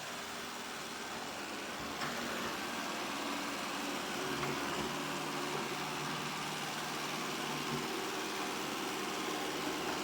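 Robot vacuum running, a steady whirring motor and brush noise with a low hum, getting a little louder about two seconds in.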